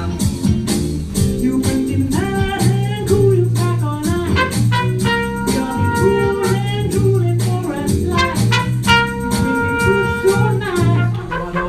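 Live jazz band playing: a horn carries the melody over bass and drums with a steady beat.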